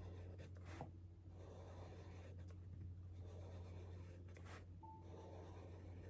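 Faint scratching of handwriting over a steady low hum, with a couple of light ticks.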